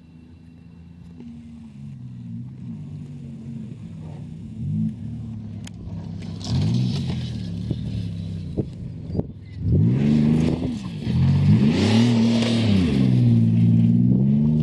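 Pontiac Bonneville race car's engine revving hard on a timed dirt-track run, its pitch rising and falling again and again with the throttle and gear changes. It starts faint and grows steadily louder as the car approaches.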